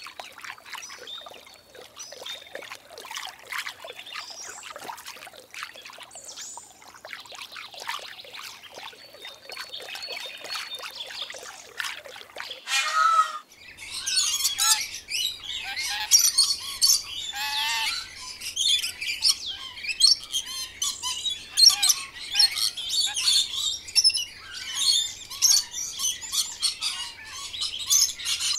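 Pond water trickling, with a few bird chirps, for the first half. About halfway through it changes to a dense, louder run of parrot chirps and squawks over a faint low hum.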